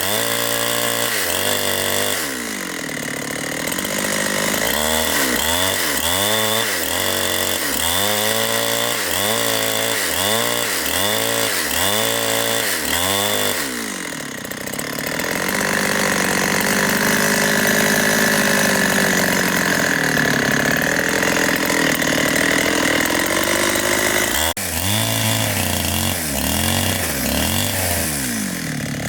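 Two-stroke chainsaw engine revved up and down in quick repeated throttle blips, then held at a steady pitch for several seconds in the middle while working in the cut, then blipped again near the end.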